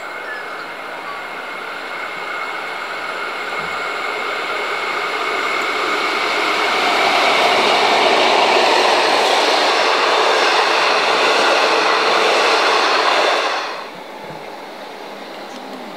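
V/Line N class diesel-electric locomotive and its passenger carriages running through a station, growing steadily louder as it approaches and passing close by. The sound cuts off suddenly near the end, leaving a quieter steady background.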